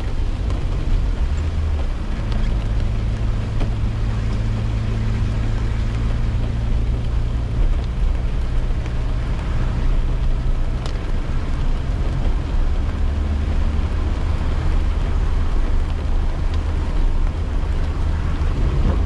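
Inside a car driving in the rain: a steady low engine and tyre drone whose pitch shifts a few times, with the hiss of the wet road and a few light raindrop ticks on the car.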